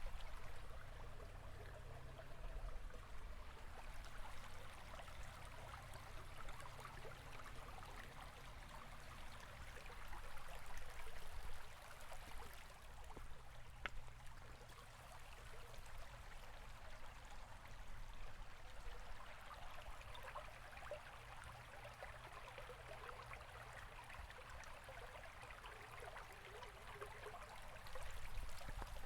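River or stream water running over stones in a steady babbling flow, with small swells in loudness and a faint low rumble underneath.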